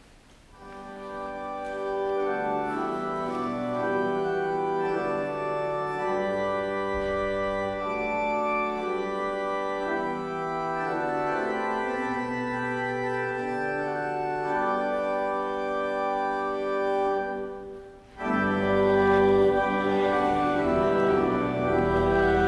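Church organ playing the closing hymn in sustained chords, changing every second or so; it breaks off briefly about 18 seconds in, then comes back louder.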